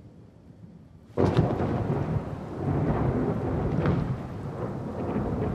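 Thunderstorm: a faint low rumble, then about a second in a loud thunderclap that rolls on and slowly fades, with rain falling throughout.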